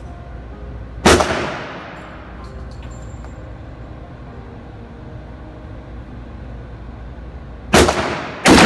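Three rifle shots, each followed by an echoing tail of about a second in an indoor range: one about a second in, then two in quick succession, well under a second apart, near the end.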